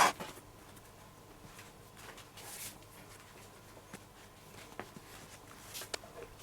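Lace being threaded and pulled through the holes of a baseball glove: a sharp knock at the very start, a short swishing pull about two and a half seconds in, and scattered light clicks and rubbing.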